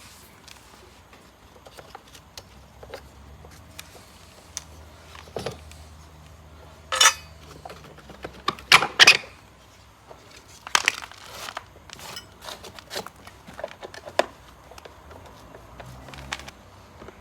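Scattered clicks, clinks and scrapes of electric lawn mower parts and tools being handled during disassembly, with a few louder rattles around the middle.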